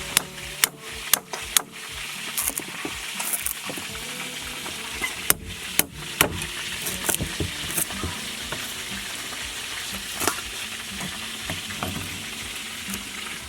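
Chicken with young peppers sizzling as it fries in a pan while being stirred, a steady hiss with sharp knocks of the utensil against the pan in two clusters, just after the start and about five to six seconds in.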